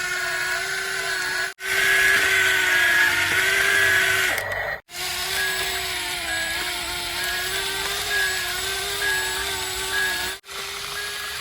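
Small electric motors of plastic RC toy vehicles whining steadily, the pitch wavering slightly, with a high two-note beeping repeating over it. The sound breaks off abruptly three times.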